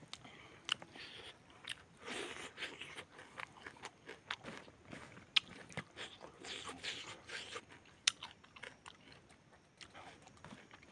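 A person chewing and biting food, mouth close to the microphone: irregular crunches, smacks and mouth clicks as cooked chicken and rice are eaten.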